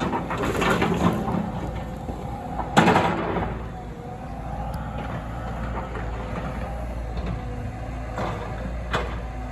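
Demolition work: a heavy machine's engine running with a steady low rumble, and one loud bang about three seconds in, with fainter knocks later.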